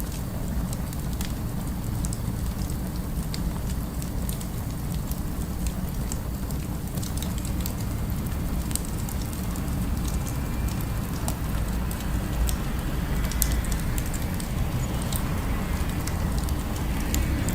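Fire crackling with scattered sharp pops over a steady low city rumble.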